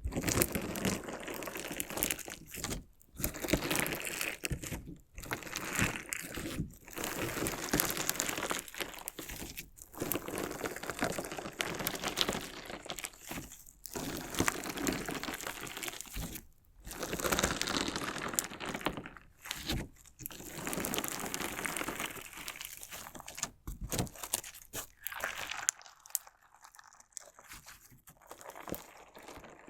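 Crunchy slime and decorative stones being cut and squeezed close to a binaural microphone. Dense crackling and crunching comes in stretches of a few seconds with short pauses between, thinning to a few sparse clicks near the end.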